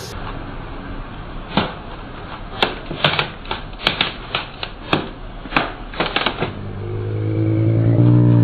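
A computer keyboard being crushed under a truck's tyre: about a dozen irregular sharp cracks and clicks of breaking plastic and keys. Then, for the last two seconds, a low pitched hum swells and rises, the truck's engine.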